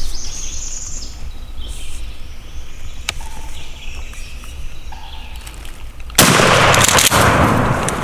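Songbirds chirping in quiet woods. About six seconds in, a sudden loud burst of noise holds for a couple of seconds.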